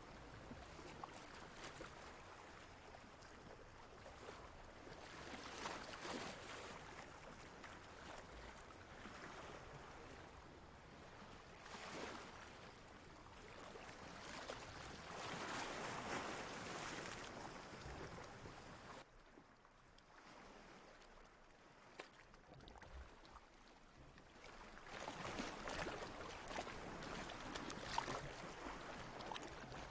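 Ocean waves washing in, a faint rushing of water that swells and fades in slow surges every few seconds, with a quieter lull in the middle.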